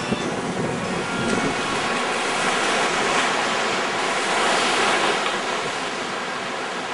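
Sea surf breaking and washing up the beach, a steady rush that swells louder about three seconds in and again about five seconds in.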